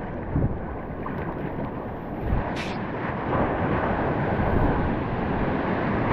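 Wind rushing over the camera's microphone, with water sloshing and splashing around a kayak.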